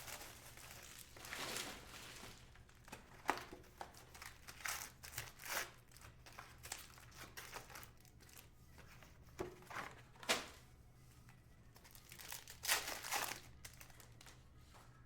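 Foil trading-card pack wrappers crinkling and tearing open by hand in irregular short bursts, loudest about two-thirds of the way in and again near the end.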